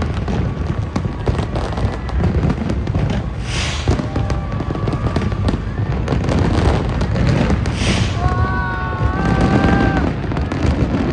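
Fireworks going off continuously: dense crackling and popping over deep, rolling booms, with two sharp bursts of hiss about three and a half and eight seconds in. A held pitched tone rises over the display twice, briefly.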